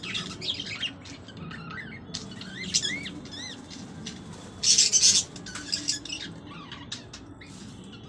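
Several ornamental aviary birds chirping and calling, with short up-and-down notes and a loud, harsh squawk about halfway through.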